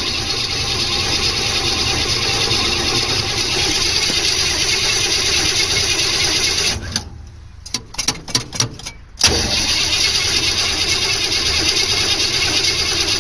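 Volkswagen engine cranking on its starter in a cold start without catching. A long crank of about seven seconds, then a few short stabs, then a second long crank.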